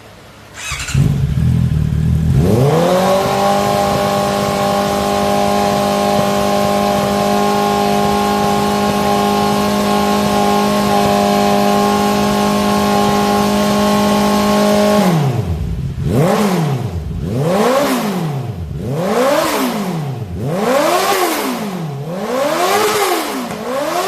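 Honda CB650R inline-four engine through an Akrapovic full-system exhaust: it starts about a second in, climbs and holds a steady engine speed for about twelve seconds. It then drops and is revved in quick blips, about six rises and falls in pitch roughly a second and a half apart.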